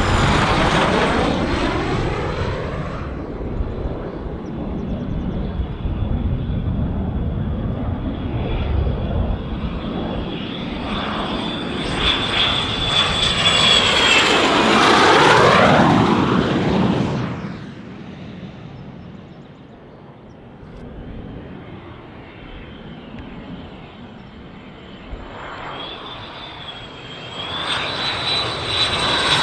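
Jet aircraft passing overhead with a steady high whine over its rumble. It grows loudest about halfway through, then falls away suddenly. Another aircraft is building up again near the end.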